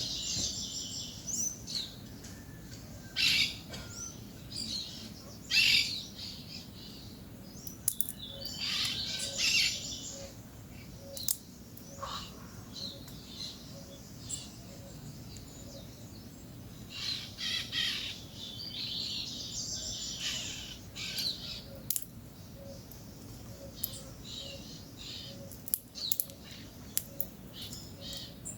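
Peach-fronted parakeets (Eupsittula aurea) calling in irregular bursts of harsh, high chattering, with a few sharp clicks in between.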